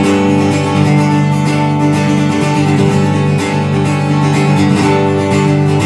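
Live band music: acoustic guitar strumming chords in a steady rhythm between sung lines.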